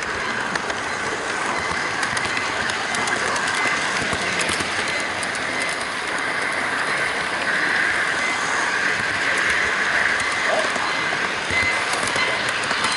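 HO-gauge model freight train running, heard from a camera riding on one of its container wagons: a steady rolling rumble of small metal wheels on the rails, with faint clicks over the track joints, a little louder for a few seconds after the midpoint.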